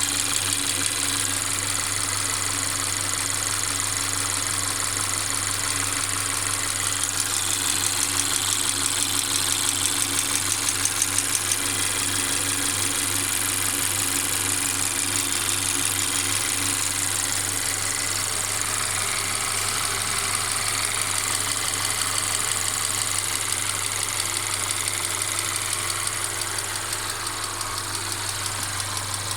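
Mercedes-Benz CLA 250's 2.0-litre turbocharged four-cylinder petrol engine running steadily, apparently at idle, with a continuous fine rattling.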